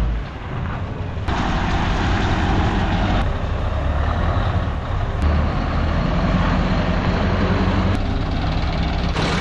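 Scania R500 V8 diesel running through a straight-piped exhaust, loud and continuous, with its sound stepping up and down abruptly several times.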